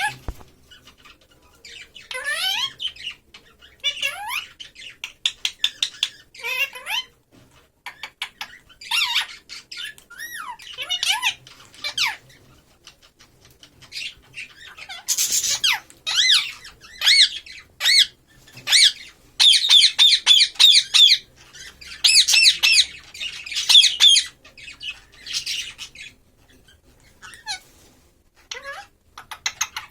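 A pet parrot calling in bouts of high whistled notes that slide up and down, mixed with runs of short rapid calls. The calling is thickest in the middle stretch, with brief pauses between bouts.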